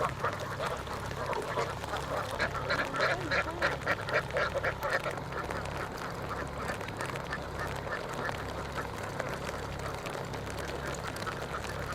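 A large flock of domestic ducks quacking, a dense chorus of overlapping calls that is loudest about two to five seconds in, over a steady low rumble.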